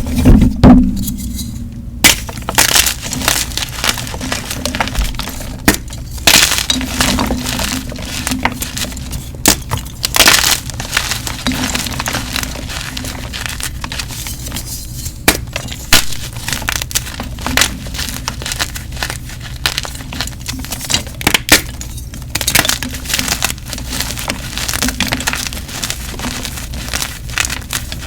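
Blocks of gym chalk being crushed and crumbled, a run of irregular crisp crunches and crackles with louder crunching bursts every few seconds.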